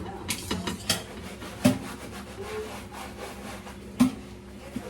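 Scraping, with four sharp knocks spread through it.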